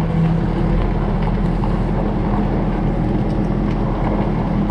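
Vehicle engine running with a steady low drone, heard from inside the cab.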